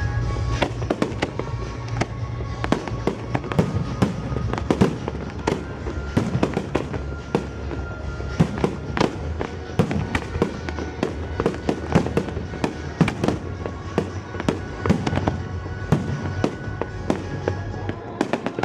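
Fireworks display: a dense, rapid string of bangs and crackles from bursting shells, several a second, over music playing underneath.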